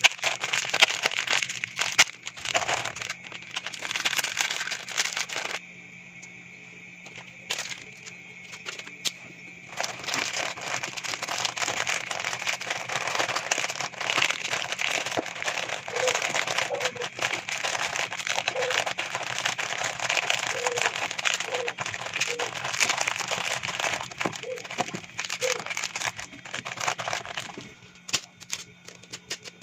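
Plastic packaging crinkling and rustling as items are handled and packed away, in long dense stretches with a pause of a few seconds early on.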